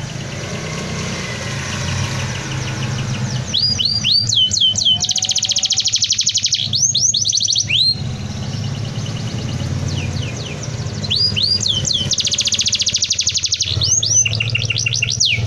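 Domestic canary singing two dense rolling phrases of rapid high trills and repeated swooping notes, each about four to five seconds long, with a short pause between. A steady low hum runs underneath.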